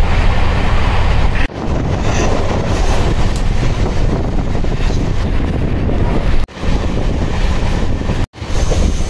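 Express passenger train running, a loud steady rumble of wheels on the track with wind buffeting the microphone. The sound cuts out briefly three times.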